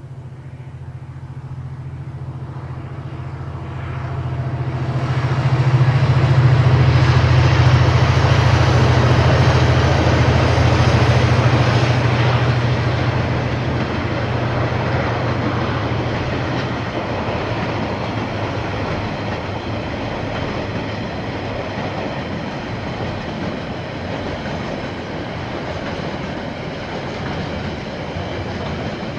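A KiwiRail freight train passing: the diesel locomotive's engine drone builds, is loudest about six to twelve seconds in and fades, while the wagons rolling over the rails keep up a steady clatter to the end.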